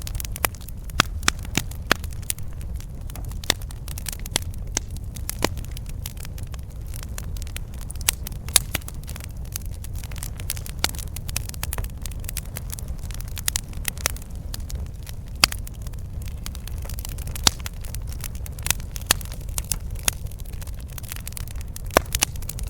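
Campfire burning: wood crackling, with frequent sharp, irregular snaps over a low steady rumble.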